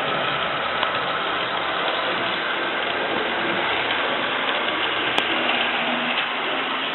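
Model train running steadily along the track, its electric motor and gears whirring with the rolling noise of the wheels on the rails.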